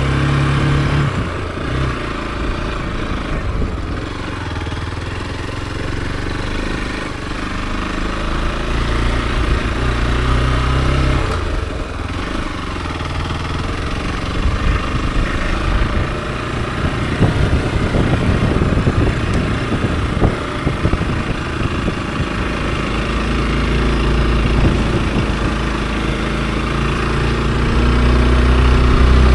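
Hero XPulse 200 4V's single-cylinder engine running on the move, its note changing with throttle and gears, with a rougher, noisier stretch in the middle. It grows louder near the end.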